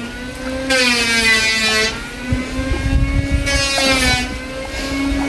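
A small engine running steadily at an even speed, with a low rumble underneath.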